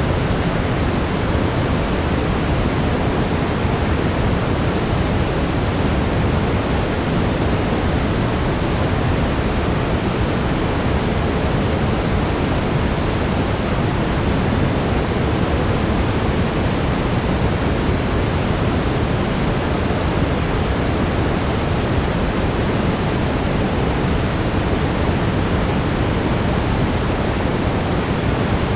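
Brown noise: a steady, deep, even hiss weighted toward the low end, like a distant waterfall, unchanging throughout.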